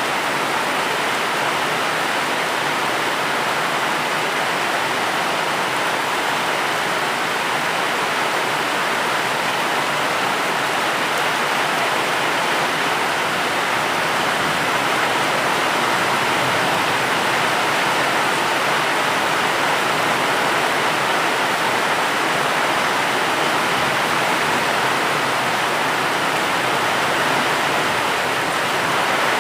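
Steady heavy rain, an even hiss that does not change, with no single drops or thunder standing out.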